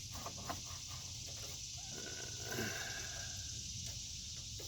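Steady high chirring of insects such as crickets, with a few faint clicks and taps from a hand working a metal A/C line fitting.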